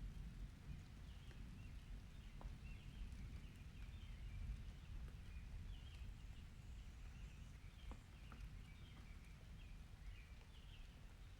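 Quiet outdoor rain ambience: a steady low rumble under faint, high bird chirps, with a few scattered ticks of drops.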